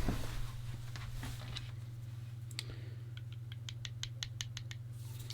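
A quick, even run of about ten small, sharp clicks, roughly six a second, with a few single clicks before it, over a steady low hum: small parts and tools being handled on a workbench.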